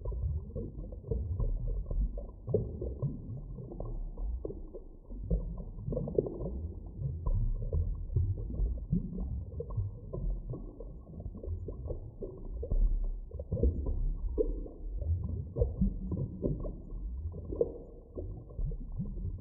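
Muffled deep-water ambience: a low, uneven rumble with irregular gurgling pulses and nothing in the high range.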